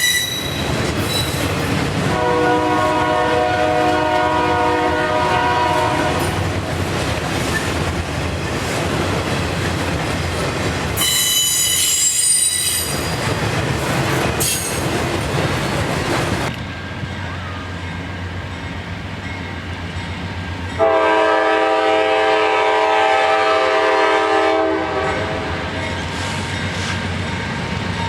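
Freight train rolling past with steady wheel and rail noise, its locomotive air horn sounding two long chord blasts, about 2 seconds in and about 21 seconds in. High-pitched wheel squeal rises briefly around the middle.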